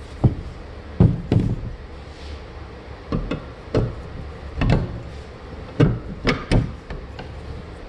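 Suzuki RV90 aluminium engine case halves, freshly vapor blasted, knocking and clunking against each other as they are fitted together by hand: about ten sharp, irregular knocks.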